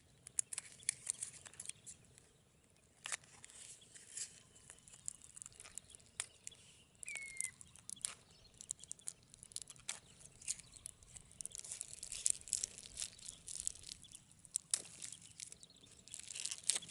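Faint natural outdoor ambience of scattered short, high chirps and clicks, busier in the second half, with one short falling whistled bird call about seven seconds in.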